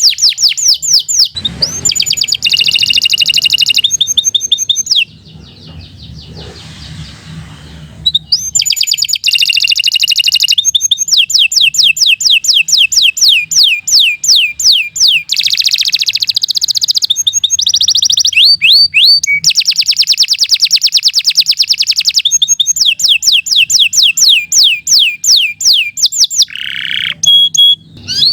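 Domestic canary singing a long, loud song of fast trills and rapidly repeated notes. It breaks off for about three seconds around five seconds in, then sings on without a break.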